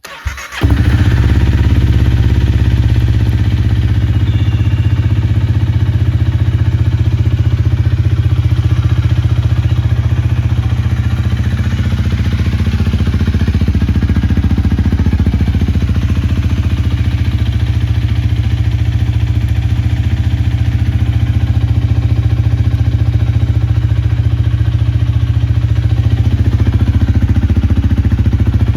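Honda Rebel 250's single-cylinder engine with a Moriwaki aftermarket muffler started with a brief crank, catching within about half a second, then idling steadily.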